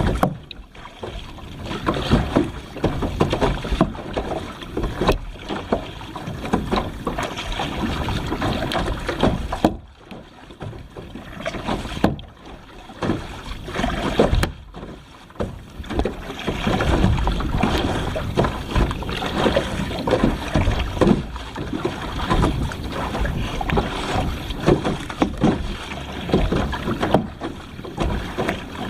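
Kayak paddle strokes splashing in open sea water, with wind rumbling on the microphone.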